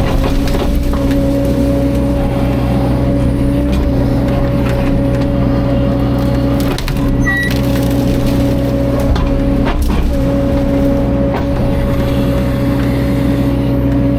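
Caterpillar 305.5 mini excavator's diesel engine running steadily under load, with a few sharp knocks and cracks as it works the buried tree wood, the clearest about 7 and 10 seconds in.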